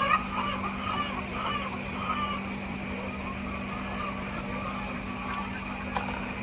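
A steady low hum over a continuous noisy background, with scattered chicken clucks in the first couple of seconds.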